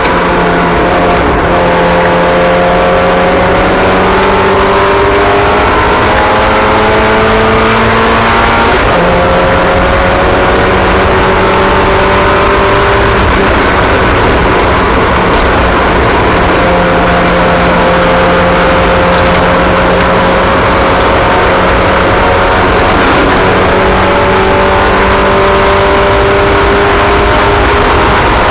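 Several small race car engines running together around a track, their overlapping notes slowly rising and falling as they accelerate and lift.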